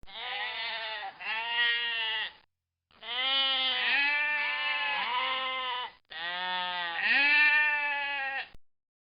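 Goat bleating, a run of wavering bleats in three bursts with short gaps between them.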